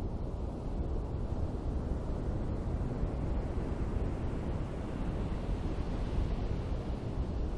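Ocean surf washing on a beach, with a steady low rumble of wind on the microphone; a wave swells up in the middle and eases off.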